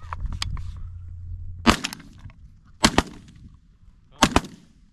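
Shotgun shots: one about a second and a half in, then two quick pairs of shots about a second and a half apart.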